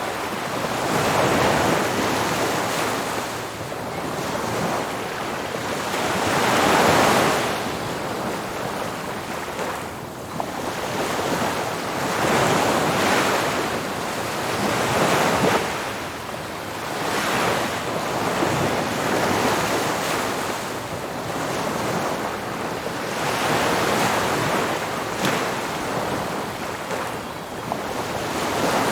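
Ocean surf breaking on a beach, the wash of waves swelling and fading every two to four seconds.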